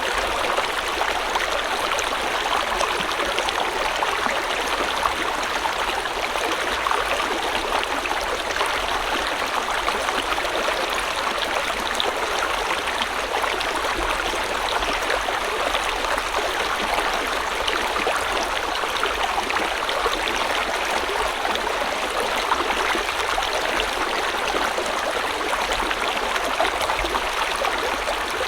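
River water flowing and babbling over stones in a steady rush, with no let-up or change.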